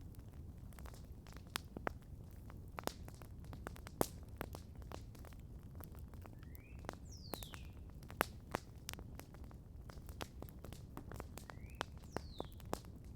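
Campfire crackling with frequent sharp pops at irregular intervals over a low steady rumble. A bird calls twice, about halfway through and again near the end; each call is a short rising note followed by a longer falling whistle.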